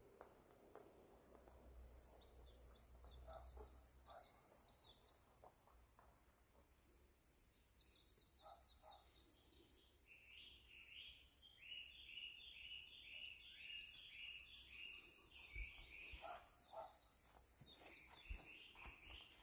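Faint birdsong: several bursts of rapid high chirps, and in the middle a run of evenly repeated lower notes, about two a second.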